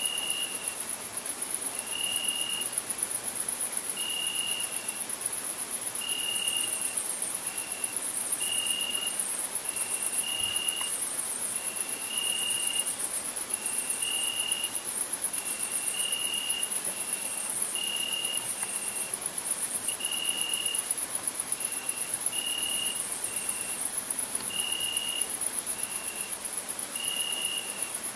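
Crickets singing: a continuous high-pitched trill, with shorter, lower-pitched chirps repeating about once a second.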